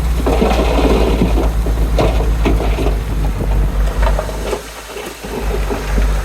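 Heavy diesel earthmoving machine running under load, its engine a steady low drone with clanking and rattling over it, dropping away briefly about five seconds in before picking up again.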